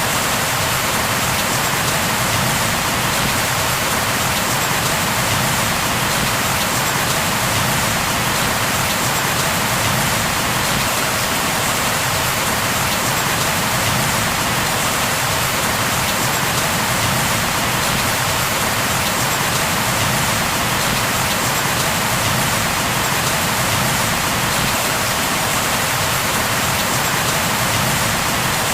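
Steady, even rain falling, an unbroken hiss of drops with no changes.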